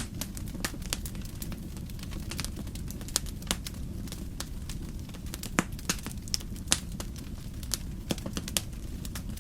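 Wood fire crackling, with irregular sharp pops over a steady low rumble; a few louder pops come a little past the middle.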